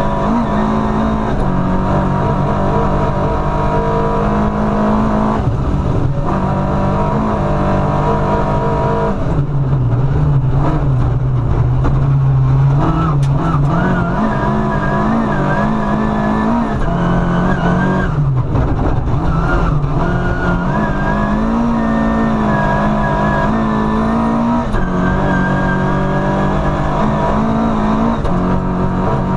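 Rally car engine heard from inside the cabin, running hard at high revs. Its pitch climbs and drops back several times with the gear changes, over constant tyre and road noise.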